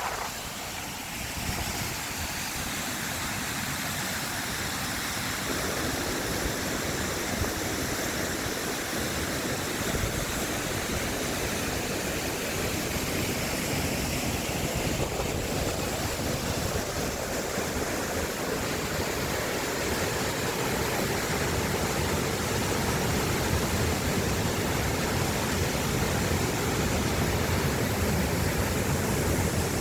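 Mountain valley stream flowing, a steady rushing wash of water.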